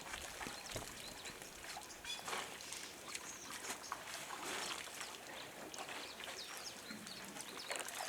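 Animal sounds: many short high chirps and calls overlapping throughout, over a steady hiss.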